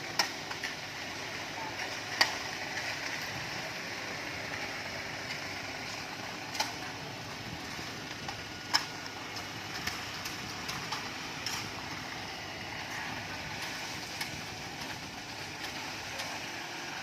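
Steady noise of machinery on a concrete slab pour, with a few sharp knocks at irregular intervals, the loudest about two seconds in and near the middle.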